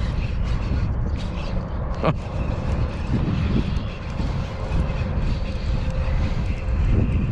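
Strong wind buffeting the microphone, a steady low rumble, with a single sharp knock about two seconds in.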